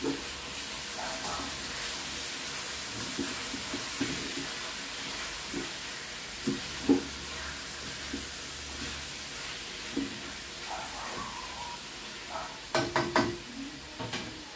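Onion and garlic sautéing in hot oil in a wok, a steady sizzle with scattered light knocks of a utensil against the pan. A quick run of sharp clatters comes near the end.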